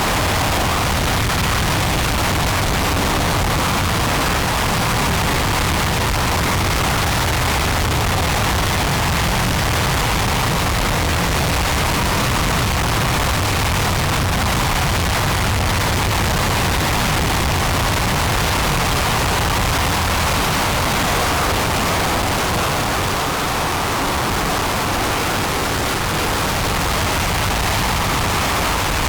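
RS-25 liquid-hydrogen rocket engine firing on a test stand: a loud, steady, unbroken noise that holds the same level throughout.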